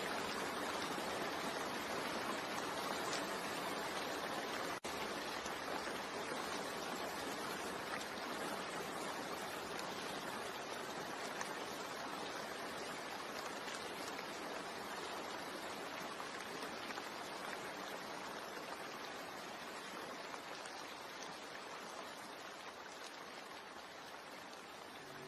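Steady heavy rain, an even hiss of drops with no thunder, slowly fading over the last several seconds.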